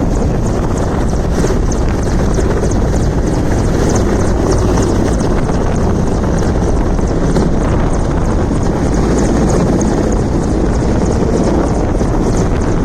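Helicopter running loud and steady, a dense rotor and engine noise with no break.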